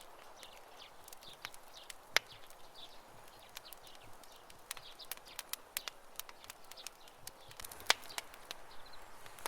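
Campfire crackling: a steady soft hiss with irregular snaps and pops of burning wood, two of them sharply louder, about two seconds in and near the end.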